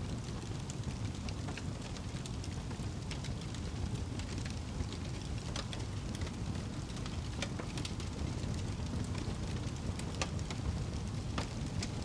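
Wood fire burning in a fireplace, a steady low rumble of flames with frequent irregular crackles and pops.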